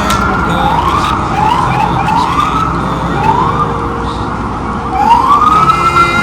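Emergency vehicle siren sounding in about six short rising sweeps, spaced unevenly, over a steady din of city traffic.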